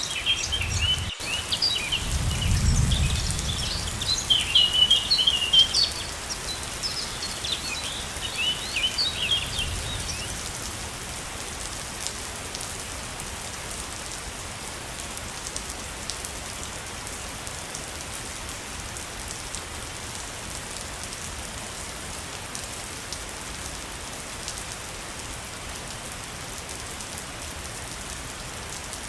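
Steady rush of a waterfall with birds chirping busily over it for the first ten seconds or so; the birds then fall silent and only the even water noise remains. A low rumble comes in briefly a couple of seconds in.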